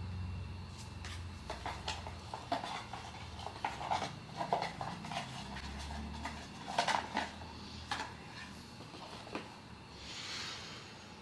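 Hands handling blind-box toy packaging: a run of small crinkles and clicks, followed about ten seconds in by a short rustling scrape.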